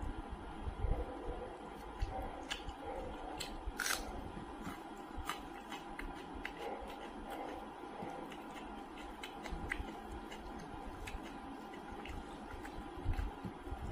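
Someone eating rice and fish curry by hand: close chewing and soft wet mouth clicks, with the squish of fingers mixing rice on a plate, over a faint steady hum.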